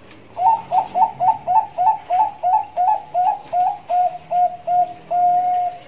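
Zebra dove (Bangkok perkutut) cooing in the style keepers call nduduk ngitit: a quick run of about fourteen short, hooked notes, about three a second, finishing with one long held note near the end.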